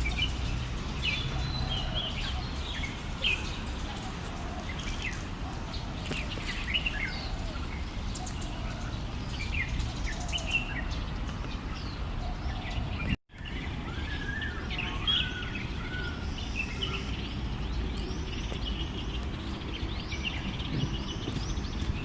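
Small birds chirping in many short, quick notes over a low background rumble, with a steady high whine above. The sound drops out briefly about thirteen seconds in.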